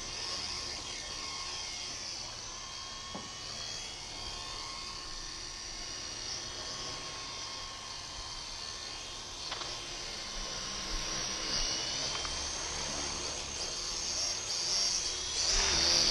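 Small electric WLToys V912 RC helicopters in flight: a steady high whine from the motors and rotors, its pitch drifting up and down with the throttle. It grows louder over the last couple of seconds.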